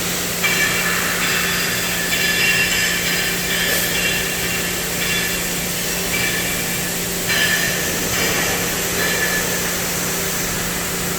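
CNC cutting machine running: a steady hiss over a constant hum, with high whining tones that start and stop every second or so.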